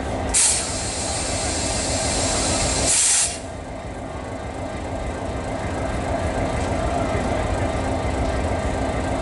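A loud hiss of compressed air from the train, starting and stopping sharply and lasting about three seconds, over the steady low rumble of the diesel locomotive, which slowly grows louder.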